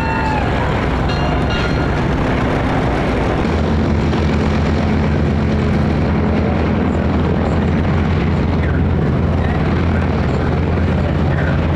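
North American AT-6/SNJ trainer's nine-cylinder Pratt & Whitney R-1340 radial engine and propeller running, a steady low drone that grows stronger about three and a half seconds in.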